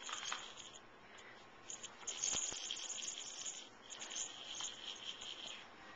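A small toy shaken and rattled in three irregular bursts of high, jingly rattling.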